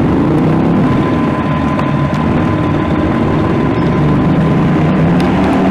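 A vehicle engine idling steadily, a low rumble with a faint steady whine through the first few seconds.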